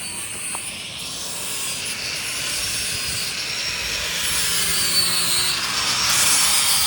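A vehicle driving along the street, its tyre and engine noise growing steadily louder as it approaches.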